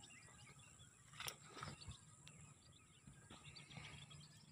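Near silence: faint scattered bird chirps over quiet open-field ambience, with a couple of faint clicks.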